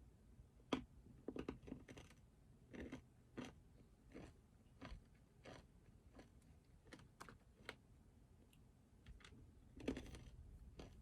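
Faint, irregular clicks and taps at a desk, scattered a second or so apart, with a denser run of them near the end.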